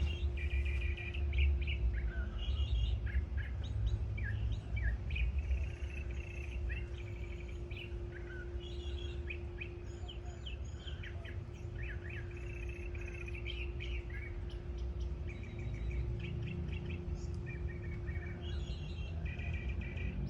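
A bird singing without a break, a long run of varied short phrases, chirps and quick trills. A steady low hum runs underneath.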